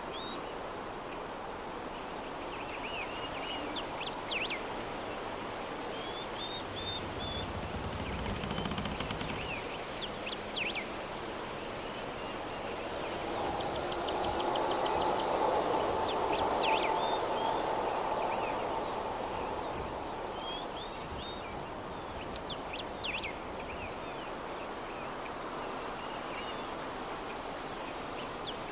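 Soft breeze blowing steadily, swelling for a few seconds mid-way, with small birds chirping and trilling outside every few seconds. A brief low rumble comes about eight seconds in.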